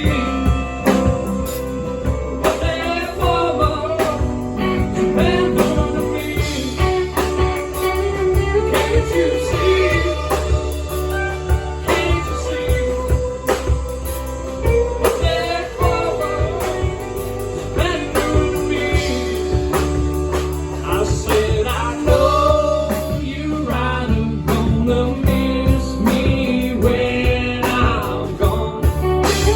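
Live band playing a blues-rock song, with a melodic lead line bending over bass and drums.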